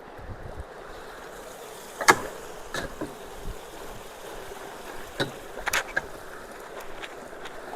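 Stream water rushing steadily through the culverts, with a few sharp impacts as debris is worked loose: one loud one about two seconds in and a quick cluster just before six seconds.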